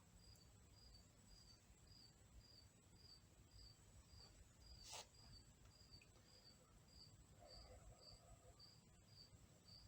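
Near silence with a single cricket chirping faintly and steadily, about two high chirps a second. A faint click sounds about halfway through.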